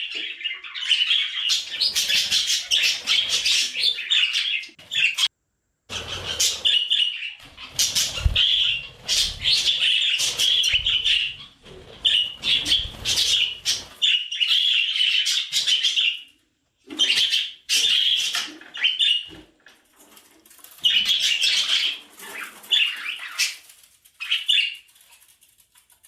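Budgerigar chatter: fast warbling and chirping in bouts of a few seconds, broken by short pauses.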